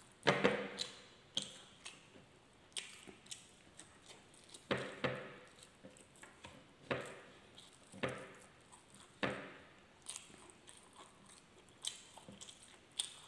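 A person chewing a mouthful of soft rice and milkfish sisig with wet mouth smacks: short, sharp smacks at an uneven pace, about one a second.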